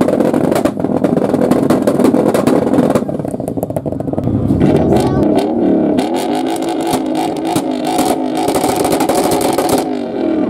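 Car engines revved hard at a standstill. First a Subaru Impreza's flat-four is heard through its exhaust, then a Mazda RX-8's rotary engine is blipped repeatedly, its pitch rising and falling.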